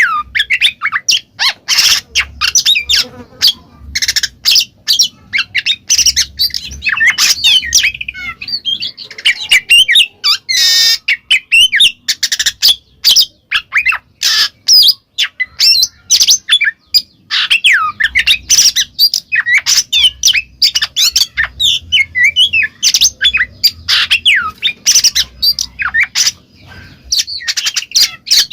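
Oriental magpie-robin (kacer) singing a loud, continuous 'ngeplong' song: a rapid, varied string of sharp clicking notes and quick whistled slurs with hardly a pause.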